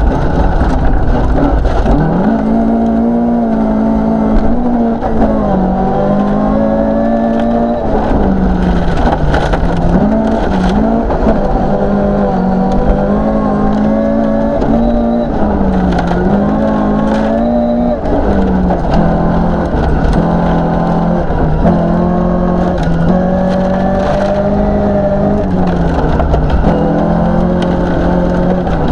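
1972 Toyota Celica 2.0GT's 2.0-litre 16-valve four-cylinder engine driven hard, heard from inside the cabin: the engine note climbs through the revs and drops back over and over as the car is pushed along a gravel rally stage, with gravel noise from the tyres underneath.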